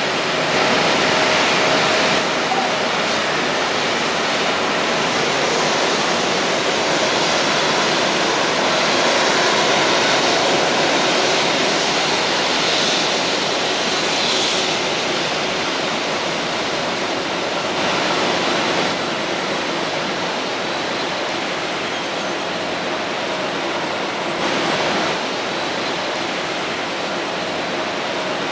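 Jet airliner engines running, a steady loud rushing noise that swells slightly midway and eases a little later on.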